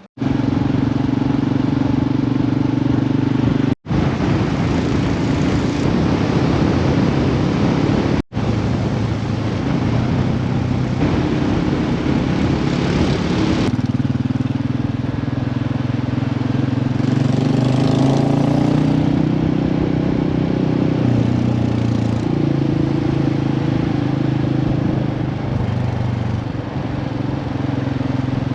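Royal Enfield motorcycle engine running steadily under way, with wind and road noise. The engine note steps up or down a few times as the speed changes, and the sound cuts out twice for an instant.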